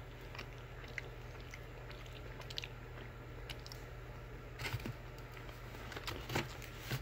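A person chewing Junior Mints Peppermint Crunch candies (chocolate-covered mints with crunchy bits) close to the microphone. There are soft, scattered crunches and a few sharper ones in the second half.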